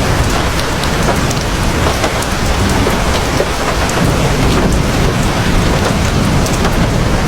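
Heavy rain falling steadily, a dense even hiss with many fine drop ticks and a deep low rumble underneath.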